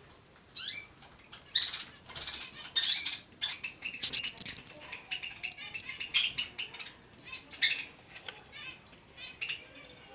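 Zebra finch chicks calling rapidly and insistently at feeding time: a dense run of short, rasping chirps that begins about half a second in, thinning later into a series of repeated shorter chirps.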